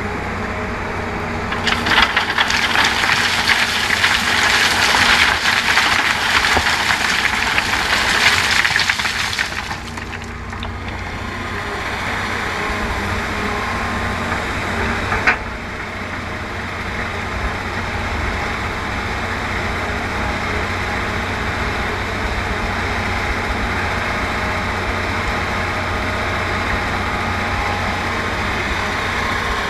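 Diesel excavator and dump truck engines running steadily while a bucket of screened sand pours into the truck bed, a loud gritty rush from about two seconds in to about ten seconds in. A single sharp knock about halfway through.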